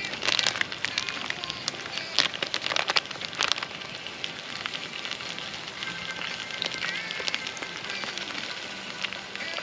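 Campfire crackling, with sharp pops and snaps over a steady hiss that are busiest in the first few seconds.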